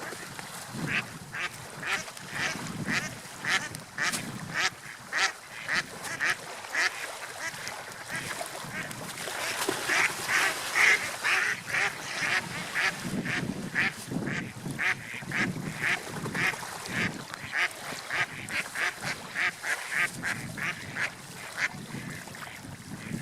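Seagulls calling: a steady run of short, sharp calls, about two a second, busiest about halfway through. A low wash of surf swells and fades underneath.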